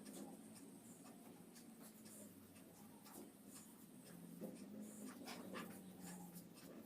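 Faint scratching of a pencil on paper, short strokes coming one after another as a gear is sketched.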